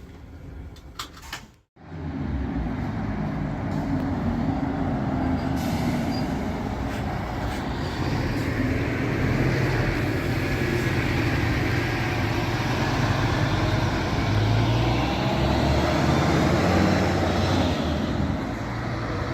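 Diesel engine of a Scania K360EB4 coach running steadily, starting after a short silence about two seconds in.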